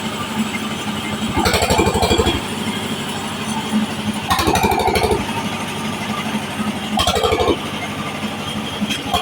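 Machine band saw running steadily while ripping waru wood into small strips. Its pitch deepens and grows louder three times, about every three seconds, as the blade bites through each cut.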